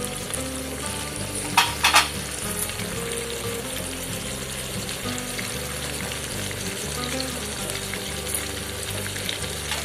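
Chicken pieces frying in hot oil in a kadai, a steady sizzle, with two sharp knocks about one and a half and two seconds in.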